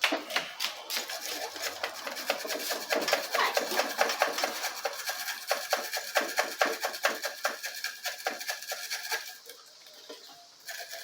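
Hand steel wire brush scrubbing chainsaw parts in quick, repeated scratchy strokes, pausing briefly near the end.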